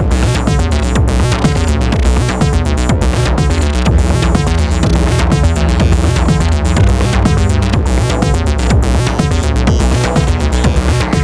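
Eurorack modular synthesizer music in an acid style: a sequenced bass line stepping through notes under a steady run of electronic drum hits, with granular sampled textures.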